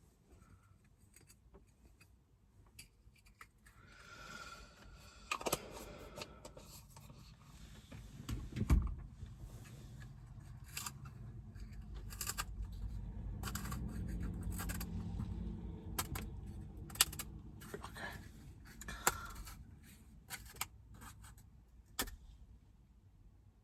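Small objects being handled at close range: scattered clicks and scrapes, with a louder knock about a third of the way in and a low rumble for a few seconds around the middle.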